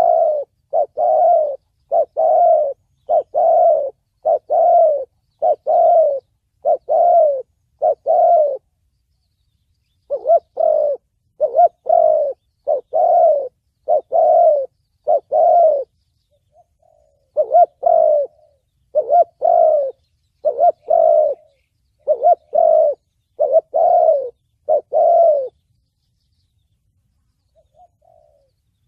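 Spotted dove cooing in the 'thổ bầu' call style: three runs of short, deep coos, about one a second, with a pause of a second or two between runs.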